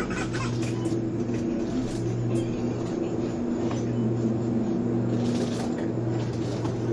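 Supermarket ambience: a steady low hum that drops out briefly a few times, with scattered light clicks and rattles.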